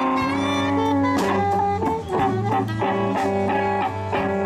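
Live blues band playing an instrumental passage between sung lines: guitar over bass and drums, with saxophone.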